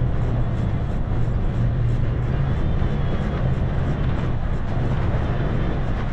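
Toyota FJ Cruiser's 4.0-litre V6 running steadily as the truck drives slowly over a dirt trail, with a constant low hum and faint scattered clicks and rattles.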